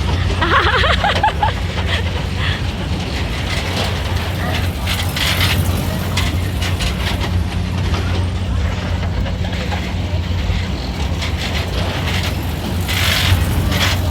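Amusement ride machinery running with a steady low hum. A child's high voice is heard briefly near the start.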